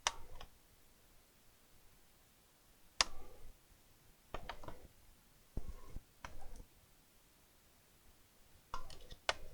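Sharp clicks and short plastic clatters, irregularly spaced, from hands and small tools working on a laptop's casing and parts during disassembly, with a quick run of several clicks near the end.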